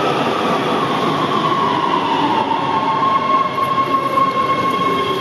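Subway train pulling into the station: a loud, steady rumble of wheels on rail with a high steel-wheel squeal that sets in about a second and a half in and holds steady, growing fuller near the end.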